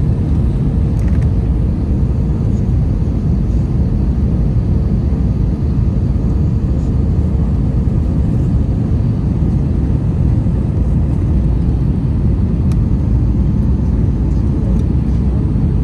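Steady low rumble of engine and airflow noise inside the cabin of an Airbus A321 with IAE V2500 engines. A faint steady hum sits over it in the first half and fades out about halfway through.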